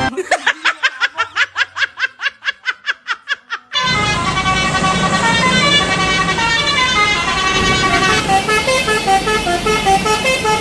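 Multi-tone telolet bus horn: a fast string of about twenty short toots, then from about four seconds in a continuous horn tune of stepping notes.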